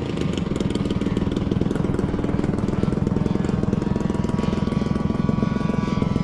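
Small combustion engine of a radio-controlled model airplane running steadily, ready for takeoff.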